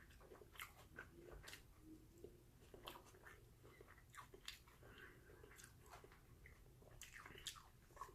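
Faint chewing of a mouthful of vegetable burrito bowl, with small mouth clicks scattered throughout.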